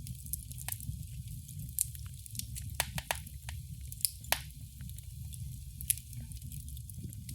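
Wood fire in a fireplace crackling, with irregular sharp pops over a low steady rumble of the flames; the loudest pops come about three and four seconds in.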